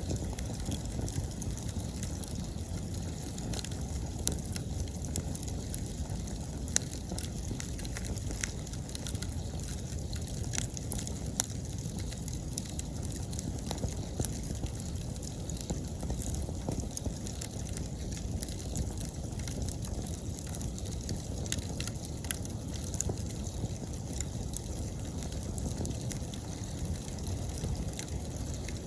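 Wood fire burning with a steady low rush, and with irregular crackles and sharp pops from the burning wood throughout.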